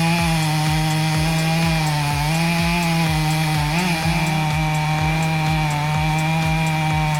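Chainsaw running at high revs, its pitch holding steady with brief dips as it bites into the wood. Underneath is background music with a steady beat of about two kicks a second.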